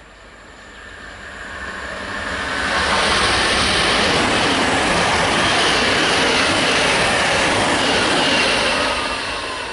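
A Great Northern electric passenger train passing through the station: a rushing rumble of wheels and motors builds up over the first few seconds, stays loud and steady, then fades away near the end with a faint falling whine.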